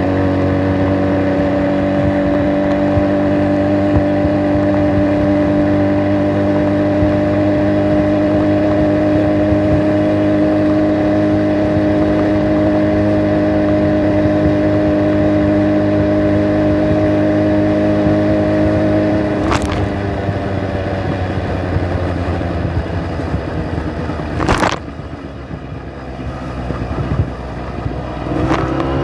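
Small engine of a hand-built motorized bicycle running at a steady pitch, then easing off about two-thirds of the way in, with two sharp clicks; near the end it revs up again, its pitch rising.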